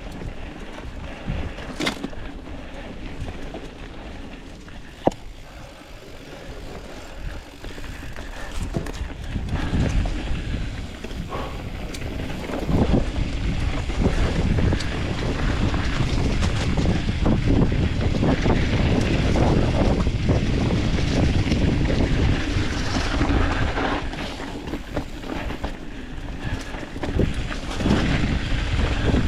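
Wind rushing over the microphone while a Specialized Status 160 mountain bike rides down a dirt trail, with tyre rumble and frequent knocks and rattles from the bike over rough ground. There is one sharp click about five seconds in, and it all gets louder from about halfway.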